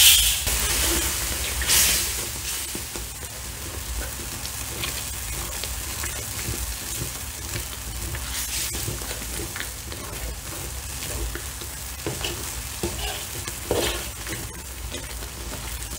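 Red curry paste frying in coconut cream in a large aluminium wok, with a steady sizzle, while a metal slotted spoon stirs and scrapes it against the pan in scattered strokes.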